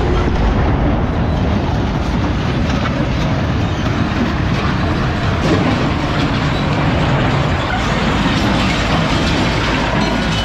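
Loud, steady rumbling and rattling of a vehicle moving through a scrapyard.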